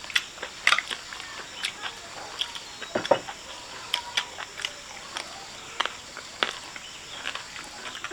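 Eating sounds: utensils clicking against bowls and chewing, heard as irregular sharp clicks. A faint, steady, high insect chirring runs underneath.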